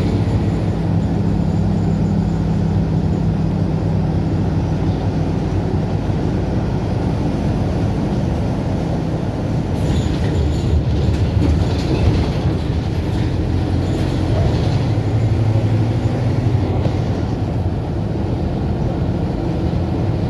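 Diesel engine of a Mercedes-Benz OF-1721 BlueTec 5 bus running, a steady low drone whose pitch and strength shift a little as engine speed changes.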